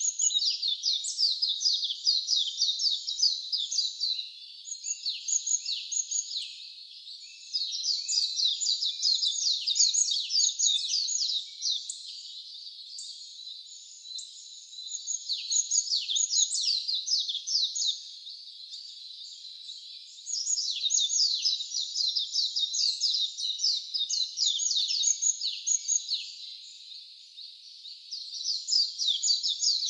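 A small songbird singing in long, rapid phrases of fast, high, descending notes, each phrase lasting several seconds, with short pauses between them.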